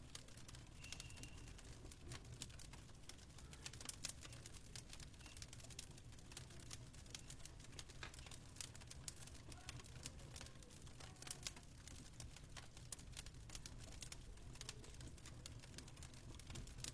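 Fireplace crackling faintly: irregular sharp pops and clicks over a low, steady rumble.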